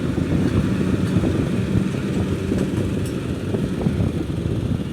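Motor vehicle engines running steadily, a dense low engine sound with a few faint clicks over it.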